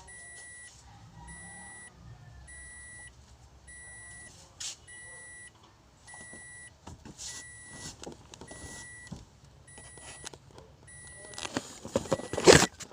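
A car's electronic warning chime beeping over and over, just under twice a second, with scattered clicks and knocks of handling. A louder clatter comes near the end.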